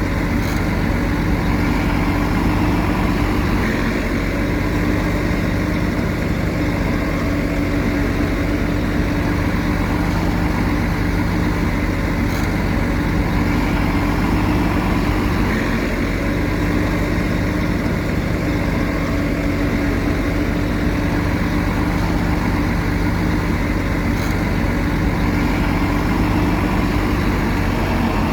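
Heavy diesel engine of earthmoving machinery running at a steady, unchanging speed, a low even drone with no revving.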